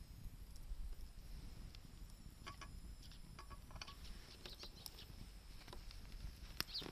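Wood campfire crackling, with a few scattered sharp pops over a low steady rumble. A bird chirps once near the end.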